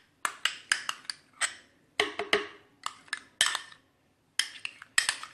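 Spoon knocking and scraping against a container as mayonnaise is emptied into a food chopper bowl: a string of irregular sharp taps.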